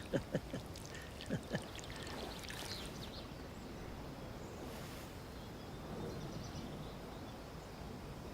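Gentle water sounds: a few small splashes or drips in the first second and a half, then a soft steady wash of water and outdoor ambience.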